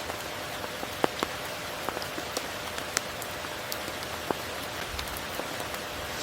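Steady rain, with scattered single drops ticking sharply close by, the strongest about a second in and again around three seconds in.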